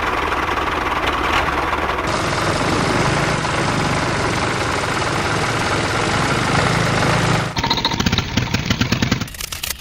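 Small motor-driven mini chaff cutter running with a steady mechanical rattle. About three quarters of the way through, the sound changes to a quick, uneven clatter.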